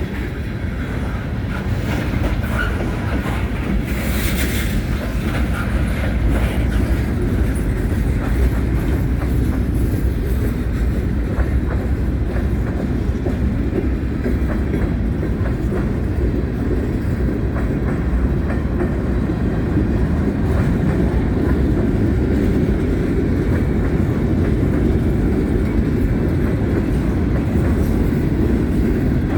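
Freight cars of a CSX freight train rolling past at steady speed: a continuous low rumble with the wheels clicking over the rail joints, and a brief high screech about four seconds in.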